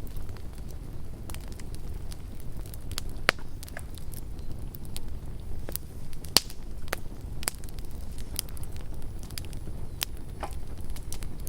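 Campfire crackling: irregular sharp pops and snaps of burning wood over a steady low rumble, with two louder cracks about three and six seconds in.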